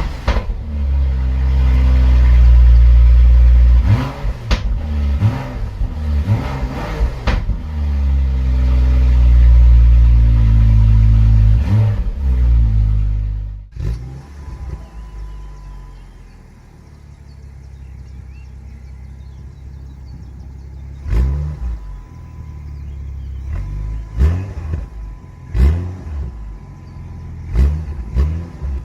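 BMW 535i (F10) turbocharged straight-six through an M Performance exhaust, running loud and deep with rises and falls in revs for about the first half. It then drops suddenly to a quieter idle, broken in the second half by several short, sharp throttle blips.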